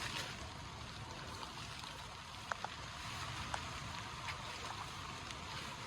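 Steady rain hiss, with a few sharper ticks of single drops landing scattered through it.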